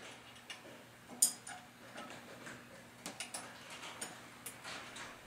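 Irregular metallic clicks and clinks of a wrench working a bolt and nut through the cart's steel tubing as it is tightened, with a sharper click about a second in and a cluster of clicks and short scrapes later on.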